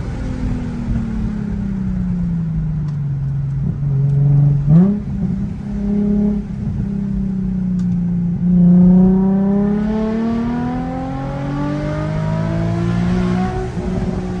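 Nissan 350Z Nismo's V6 through a stock Nismo exhaust with a Tomei single-exit axle-back, driven hard on a twisty road. The revs fall over the first few seconds, a quick throttle blip comes about five seconds in, then the engine pulls up again around nine seconds and eases off.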